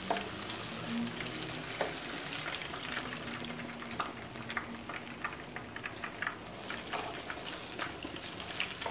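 Ripe sweet plantains frying in shallow hot oil in a skillet: a steady sizzle with many scattered crackling pops.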